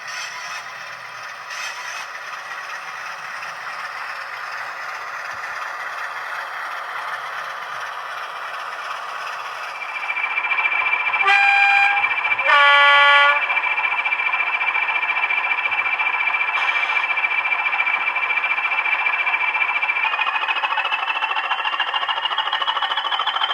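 Sound-fitted model diesel locomotive running: the engine sound builds up about ten seconds in with a steady high whine, then two short horn blasts, the second on a lower note. Near the end the whine rises in pitch as the engine powers up.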